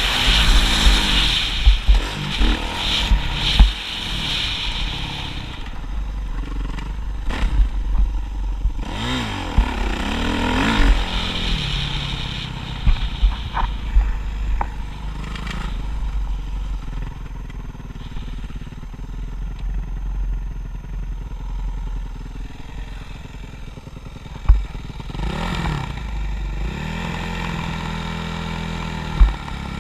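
Motocross motorcycle engine revving up and down again and again as it rides, with a steady low rumble under it.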